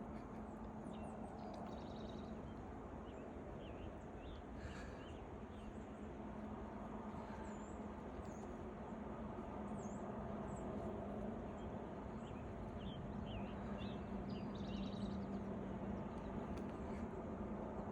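Small birds chirping with many short, quick calls, scattered throughout over a steady low background noise.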